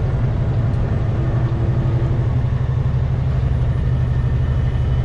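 Semi truck's diesel engine running with a steady low drone and road noise, heard inside the cab while driving.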